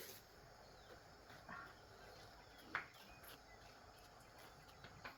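Near silence: a faint background hiss with a few soft, short clicks, the clearest a little under three seconds in.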